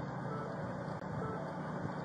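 Vehicle idling steadily at the roadside, with a faint short electronic beep repeating about once a second.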